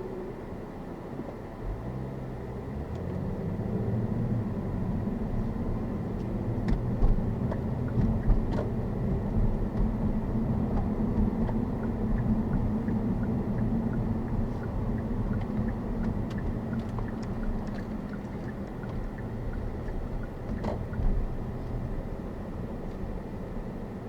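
Kia Stinger's engine accelerating hard under load: its pitch climbs over the first few seconds, holds high for about ten seconds, then slowly eases off, over steady road and wind noise. A few sharp clicks stand out around a third of the way in and near the end.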